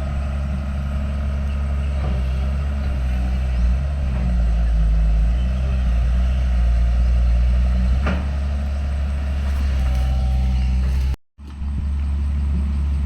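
Heavy diesel engine of an earthmoving machine running steadily, with a sharp knock about eight seconds in. The sound cuts out for a moment just after eleven seconds, then the engine carries on.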